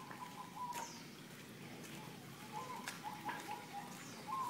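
Faint bird calls: small groups of short, repeated chirping notes at one pitch, with a couple of brief high falling whistles and a few soft clicks.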